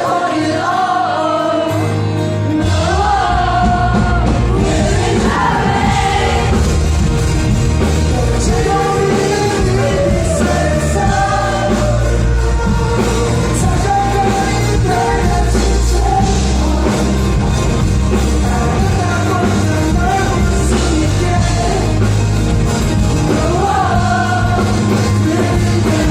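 Live rock band playing a song with a lead singer; the bass and drums come in heavily about two seconds in.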